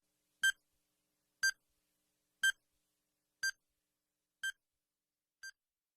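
Six short electronic beeps, one a second, each a little quieter than the one before.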